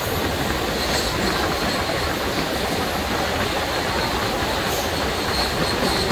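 13063 Howrah–Balurghat Express passenger train running at speed, heard close from beside the coach: a steady rumble of wheels on the rails, with a faint click now and then.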